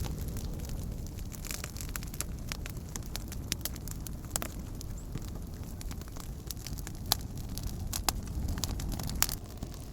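Wood campfire burning, with irregular sharp crackles and pops over a low steady rumble; a few louder pops come in the second half.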